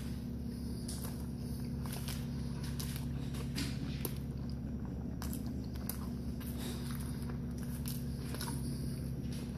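A person chewing a large mouthful of burger, with scattered short mouth clicks, over a steady low hum.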